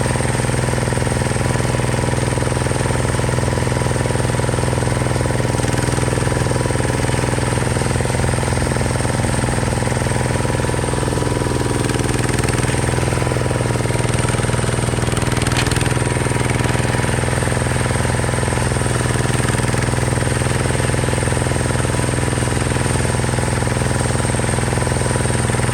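Diesel tractor engine running steadily at a constant speed, its pitch and loudness unchanging.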